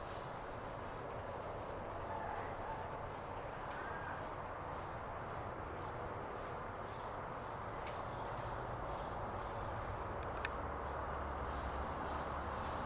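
Faint, short, high bird chirps scattered over a steady background hiss, with a single click about ten seconds in and a low rumble coming in near the end.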